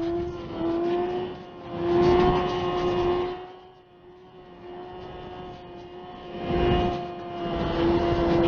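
Motorcycle engine held at steady high revs, one constant tone, with two loud gusts of wind rush over it, the first about two seconds in and the second near the end.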